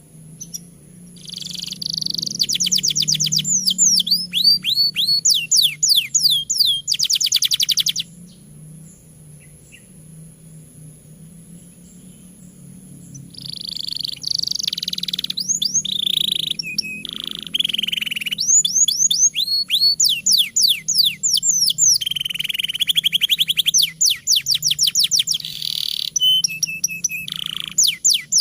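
Domestic canary singing a long song: fast trills of rapidly repeated falling whistled notes, each roll changing pitch and tempo. The singing stops for several seconds in the middle, then carries on. This is the loud, persistent 'gacor' type of song that is played to other canaries to prompt them to sing.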